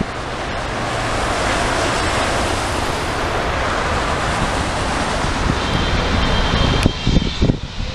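Wide-body jet airliner passing close by, a loud steady jet roar with high engine whine tones coming through near the end. Wind buffets the microphone throughout.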